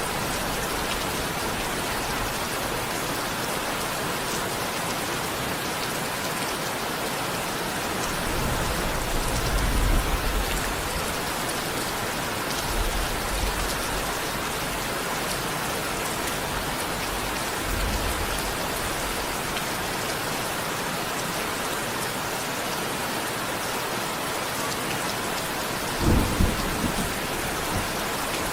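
Steady rain falling, an even hiss of drops. Low rumbles of thunder swell up a few times, with a short sharper burst of thunder near the end.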